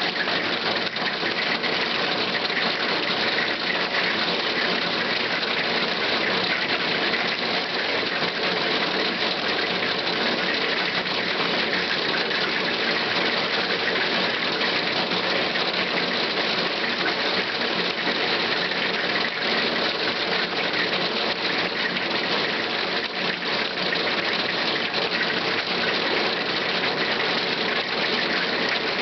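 Hail falling hard: a dense, steady clatter of many hailstones striking, extremely loud.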